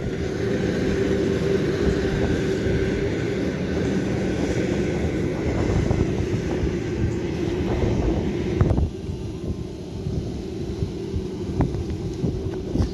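An engine running steadily with a droning hum, which drops in level about nine seconds in, followed by a few sharp clicks.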